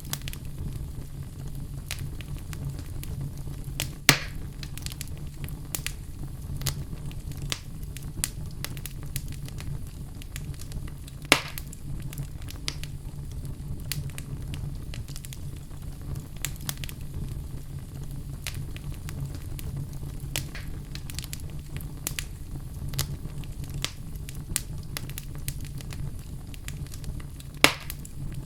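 Wood fire burning in a fireplace: a steady low rumble of flame with frequent crackles and three louder pops, about four seconds in, eleven seconds in, and near the end.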